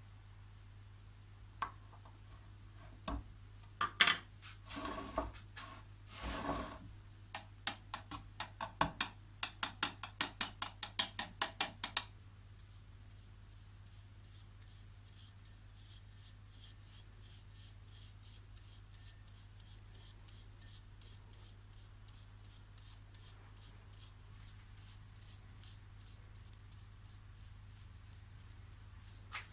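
Hand scraping strokes on the clamp being restored, about three a second: a few knocks first, then loud strokes until about twelve seconds in, then a longer, softer run of strokes. A steady low hum runs underneath.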